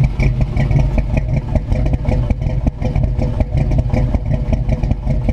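Dodge Magnum's 6.1-litre Hemi V8 idling steadily.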